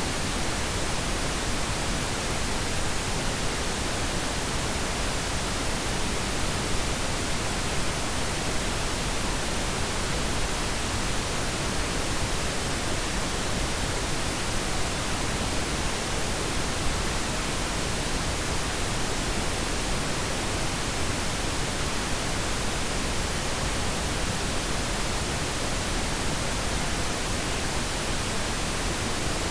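Steady pink noise: an even, unchanging hiss spread across all pitches, softer in the highs than white noise.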